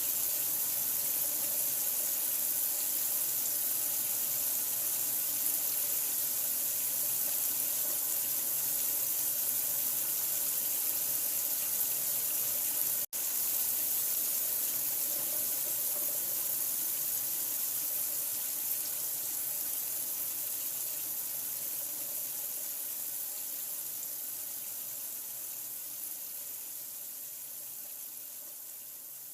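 Steady running water, an even rushing hiss like a tap running into a sink. It cuts out for an instant about 13 seconds in, then resumes and slowly fades down over the last ten seconds.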